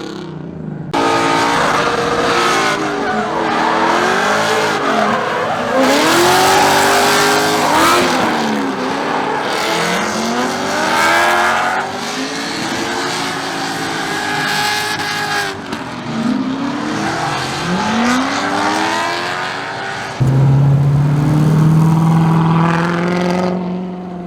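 Several car engines revving and accelerating one after another, the pitch climbing and dropping again and again over a rushing haze of exhaust and tyre noise. About twenty seconds in, a nearer engine's steady, louder drone takes over.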